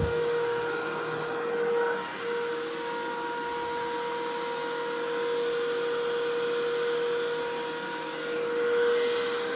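Thickness planer running with a steady high-pitched motor whine, with a sharp knock right at the start.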